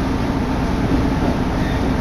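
Steady running noise inside a moving diesel railcar: an even engine hum with one held low tone over the rumble of the wheels on the rails.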